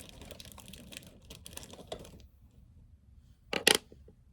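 Small cut plastic pieces being handled on a work surface: light clicking and crinkling for about two seconds, then two sharp clacks about three and a half seconds in.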